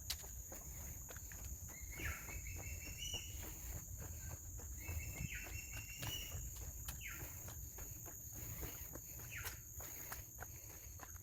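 Tropical forest ambience: a steady high-pitched insect drone, a bird repeating a short call that ends in a falling note about every two to three seconds, and footsteps on a trail.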